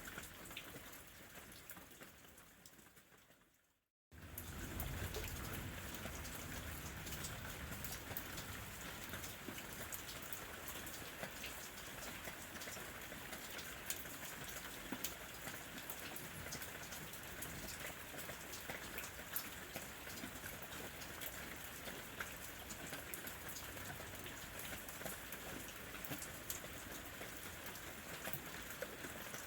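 Steady rain falling, with many single drops ticking. About four seconds in it fades out to silence and comes back abruptly: the join of a looped recording.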